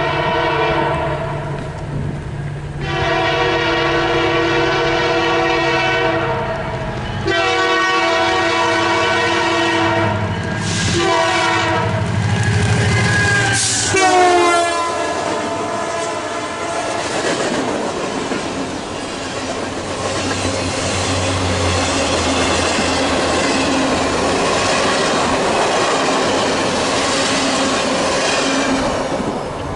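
Canadian Pacific Holiday Train's diesel locomotive blowing its air horn in several long blasts as it approaches at speed, the horn's pitch sliding down as it passes close by about halfway through. After that, the railcars rolling past with wheels clattering over the rail joints.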